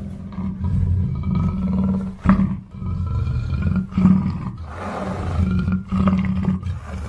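Black panther growling and roaring in a run of low calls broken by short pauses.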